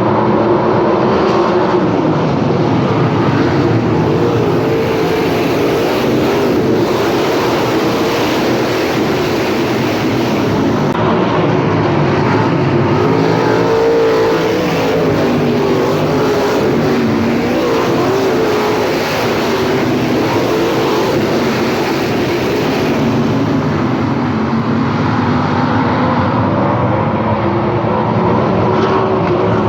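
Several 410 sprint cars' V8 engines running together on a dirt oval, loud and continuous, the engine pitch rising and falling over and over as the cars go around the track.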